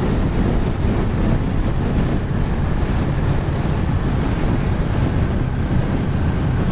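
Wind rushing over the helmet-camera microphone of a moving motorcycle, with the bike's engine running steadily underneath at cruising speed.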